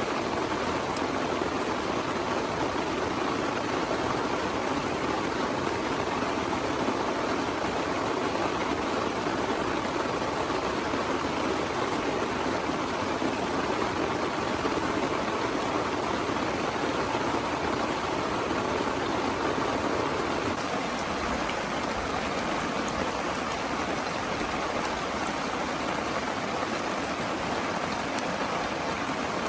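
Heavy rain pouring, a steady dense hiss with no letup.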